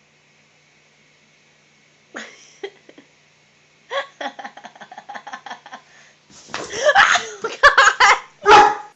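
A dog barking and yelping in short calls that come in quick strings, loudest over the last three seconds.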